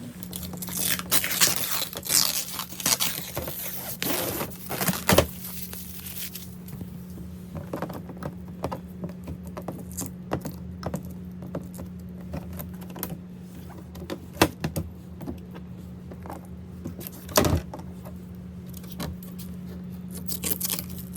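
Plastic wrapping crinkling and rustling as it is peeled off a new portable washing machine. It is dense for the first several seconds, then turns to scattered rustles and light taps, with a sharper knock about five seconds in and another about seventeen seconds in. A steady low hum runs underneath.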